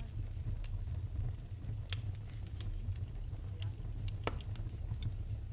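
Wood fire in a fireplace crackling: scattered sharp pops, about one a second, the loudest about four seconds in, over a steady low rumble of the flames.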